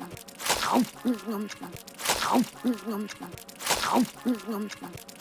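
Cartoon character chewing a huge mouthful of sandwich: a wet squelching chomp followed by muffled closed-mouth "mm-mm" voice sounds. The same short loop repeats about every one and a half seconds.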